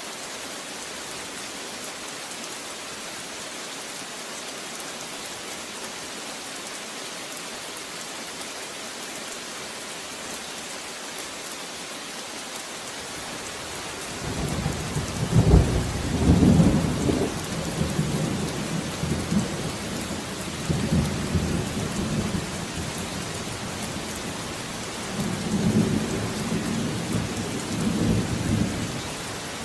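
Steady rain hissing, with a long rolling thunder rumble coming in about halfway through, loudest in its first few seconds, swelling again near the end and then dying away.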